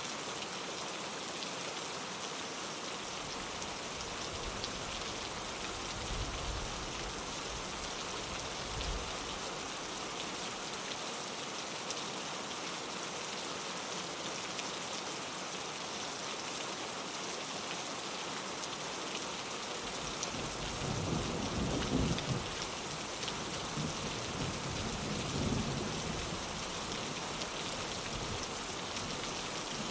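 Steady rain falling on a window, an even hiss throughout. Low rolls of thunder come faintly a few seconds in and more strongly about twenty seconds in, then fade.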